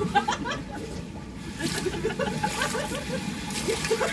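Indistinct voices talking, over a steady low background hum.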